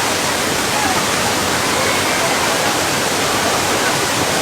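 Tioyacu river water rushing in a steady, even flow.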